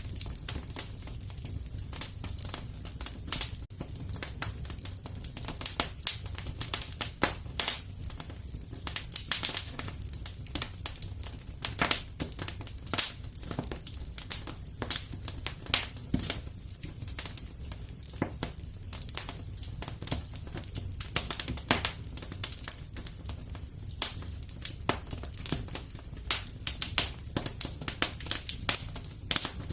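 Fireplace wood fire crackling steadily, with irregular sharp pops and snaps over a low, even rumble of the flames.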